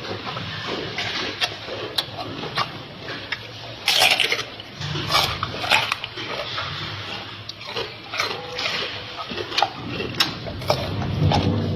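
Crunching and chewing of raw vegetables: many sharp cracks and wet munching sounds, with low, growly noises now and then.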